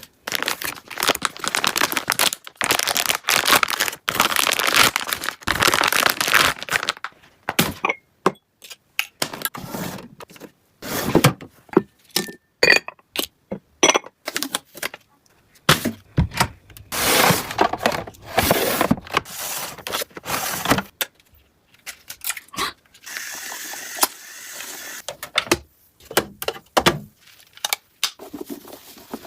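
Objects being handled: a long, irregular run of crinkling, scraping and knocking with short pauses, then a steadier hiss for a couple of seconds about three-quarters of the way through.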